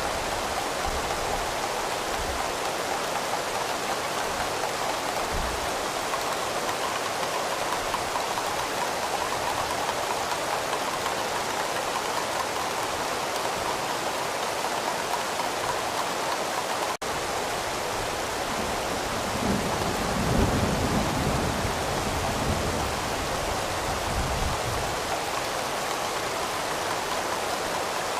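Steady rain falling, with a low rumble of distant thunder swelling about two-thirds of the way through. The sound cuts out for an instant just past the middle.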